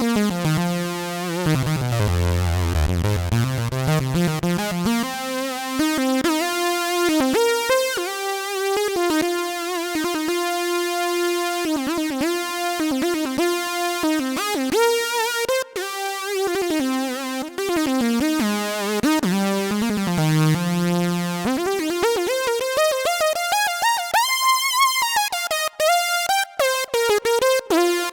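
Roland Gaia 2 synthesizer playing a preset: rich sustained notes that glide in pitch, sweeping down to a low note about two seconds in, and near the end rising in one long slide, then falling back.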